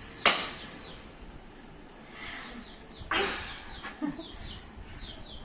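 Pet rose-ringed parakeets calling: a harsh screech about a quarter second in and another about three seconds in, with short, quick chirps between them.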